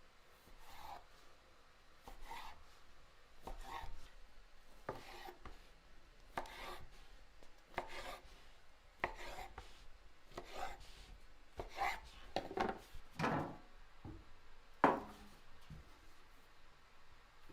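Knife cutting food on a wooden board, in irregular separate strokes with a slight scrape to each.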